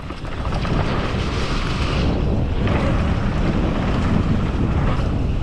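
Heavy wind buffeting on the microphone as a mountain bike rolls downhill at speed, a steady low rumble that builds over the first second and then holds.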